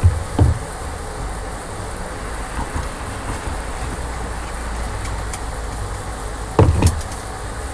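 A steady low rumble with a few sharp knocks: one at the start, one about half a second in, and a louder double knock near the end.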